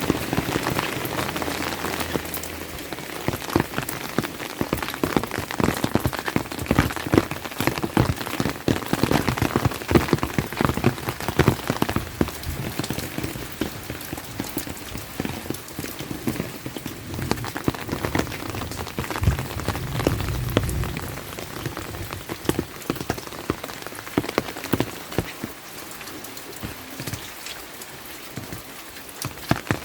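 Steady rain with a dense, irregular patter of close, sharp drop impacts, easing slightly in the last few seconds.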